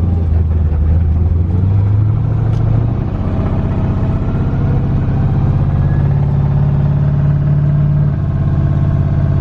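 Twin-turbo LS V8 running with no mufflers while the car is driven: a loud, low exhaust drone that climbs in pitch over the first few seconds, holds steady, then dips a little near the end.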